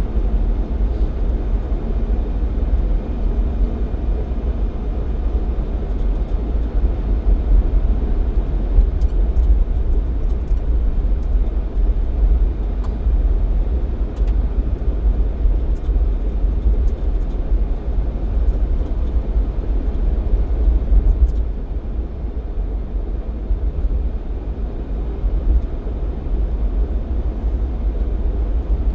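A Jeep Cherokee XJ under way, its engine and tyre noise making a steady low rumble that holds at the same level throughout.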